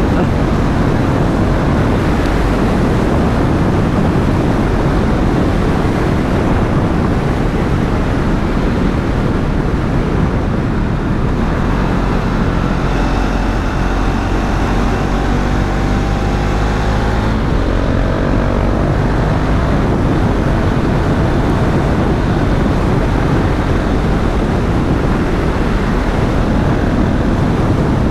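KTM Duke 690 single-cylinder engine running as the bike is ridden, with wind rush over the microphone; the engine note shifts up and down around the middle as the revs change.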